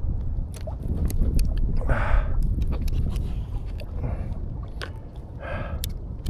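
Steady low rumble of wind buffeting the microphone and water around a small boat, with a few light clicks and taps.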